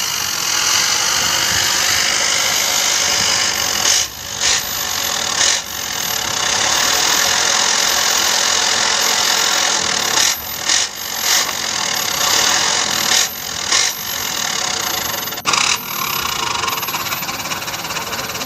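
Truck engine running hard under load with rattling, its sound dropping away briefly several times.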